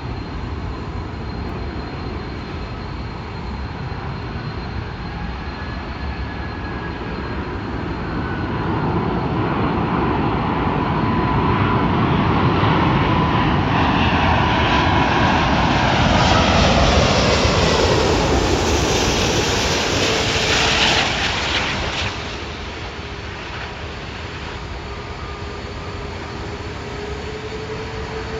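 Jet airliner flying past. The engine noise swells to a peak while its whine slides down in pitch as the aircraft passes, then drops away fairly quickly to a lower, steadier rumble.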